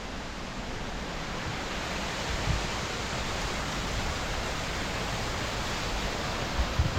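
Steady rushing of water flowing down Handapan Ella waterfall, with a few low thumps of wind on the microphone about two and a half seconds in and near the end.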